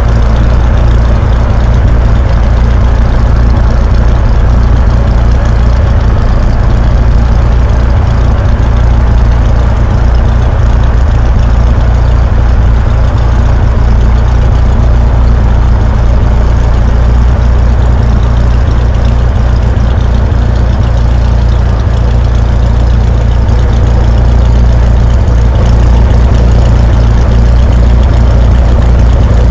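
Cessna 172's piston engine and propeller droning steadily at an even, unchanging pitch, deep and loud.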